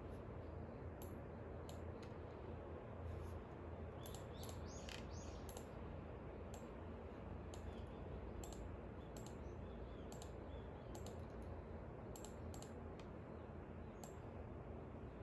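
Light, sharp clicks at irregular intervals, about one or two a second, over a steady low hum, with a short falling bird chirp about four to five seconds in.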